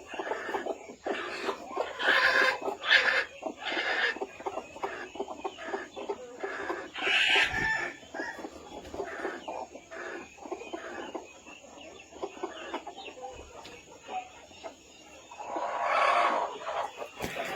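A flock of chickens clucking continuously, many short calls overlapping, with a few louder calls and one longer call near the end.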